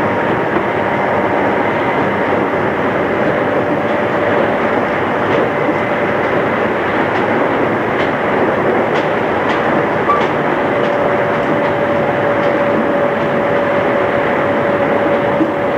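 Running sound inside a JR East 211 series electric multiple unit moving at steady speed, copied from a cassette tape recording. It is an even rumble of wheels on rail under a steady whine, with a run of light clicks in the middle.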